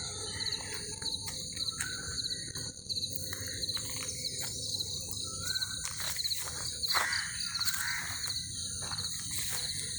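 Steady high-pitched chorus of insects shrilling without a break, with short bird calls scattered through it.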